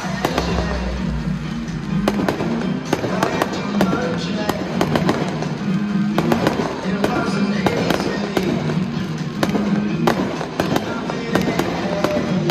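Fireworks bursting overhead, a dense run of sharp cracks and pops with a deep boom near the start, over music playing on the stadium's sound system.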